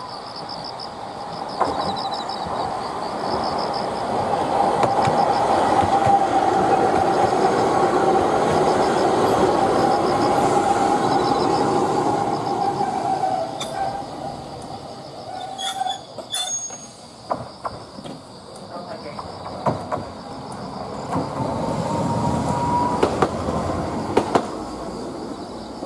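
Chikuho Electric Railway 2000-series electric car running past on the line: wheel and motor noise builds, is loudest for several seconds about a third of the way in, then fades. Scattered clicks follow, and near the end a second swell of train noise carries a rising whine.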